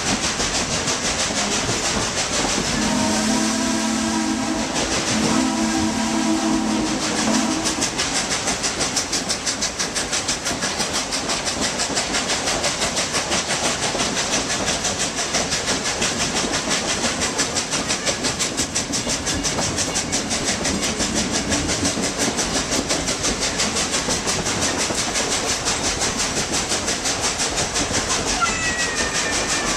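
Baldwin 2-8-2 narrow-gauge steam locomotive's whistle blowing two long blasts a few seconds in. After that the train runs on with a fast, even, rhythmic clatter and hiss.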